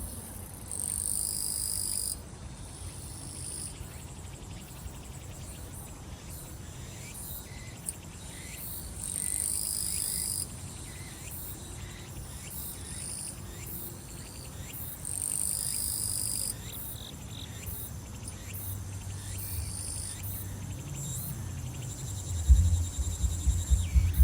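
Chorus of summer grass insects trilling, with a high buzzing phrase about a second and a half long coming back every six or seven seconds over repeated short chirps. A deep thumping beat comes in near the end.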